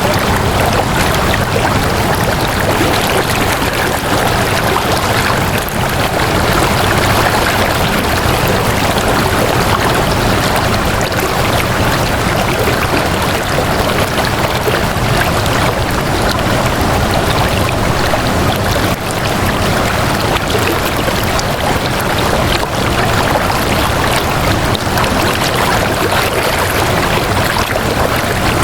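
Flowing water rushing steadily, an even unbroken wash of noise.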